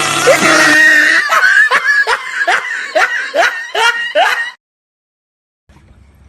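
Laughter: a run of about eight evenly spaced 'ha' syllables, each bending in pitch, that cuts off abruptly.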